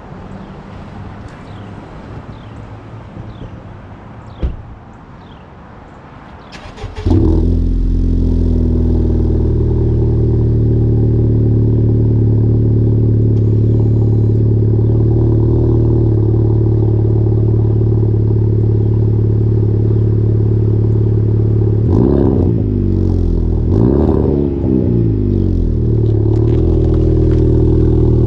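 Honda Civic Type R FK8's 2.0-litre turbocharged four-cylinder, breathing through an AWE Track Edition exhaust, starts about seven seconds in and settles into a steady idle. Two quick revs come about two-thirds of the way through, each rising and falling back to idle.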